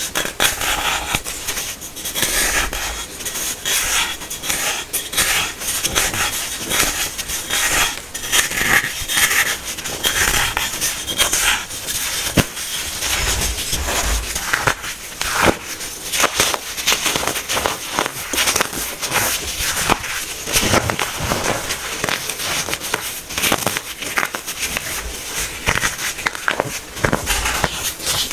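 Compacted baking soda being crushed by hand, a dense run of crunching and crackling with sharp snaps throughout.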